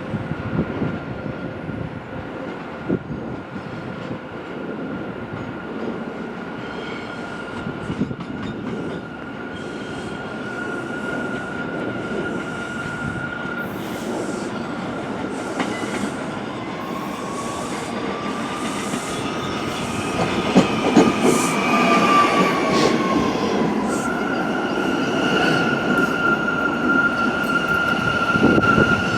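New York City subway train moving slowly on the tracks, getting louder, with a steady high wheel squeal, a second squeal that rises and then falls in pitch about two-thirds of the way through, and wheels clicking over rail joints.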